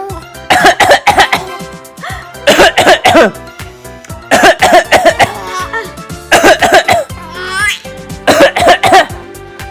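A man coughs in five short fits of several coughs each, about two seconds apart, and a four-month-old baby squeals and laughs out loud between them. Background music plays throughout.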